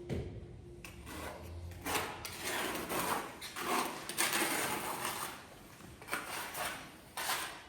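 Irregular scraping, sliding and light knocking of hands-on building work: stone and materials being shifted and slid into place, with several louder scrapes through the stretch.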